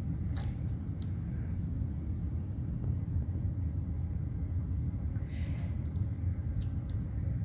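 Steady low rumble of background machinery, with a few light clicks and a brief soft hiss about five seconds in.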